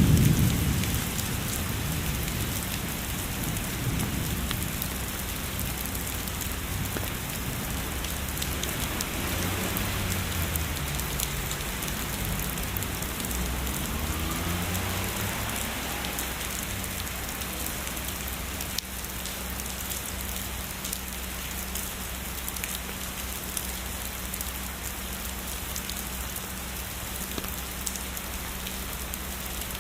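Steady heavy rain. A low thunder rumble is loudest at the very start and fades over the next few seconds, with a fainter rumble around the middle.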